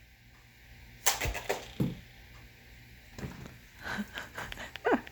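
A toy bow shot: a sharp snap about a second in as the arrow is loosed and strikes the knock-down target, a low thump right after, then a few lighter knocks and clatters later on.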